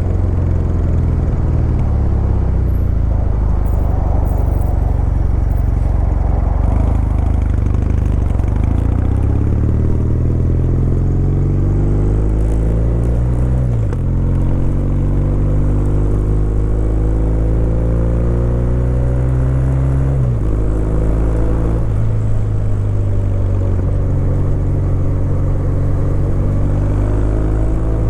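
Kawasaki W800's air-cooled parallel-twin engine running under way, its pitch climbing as it pulls and dropping abruptly at a few gear changes around the middle.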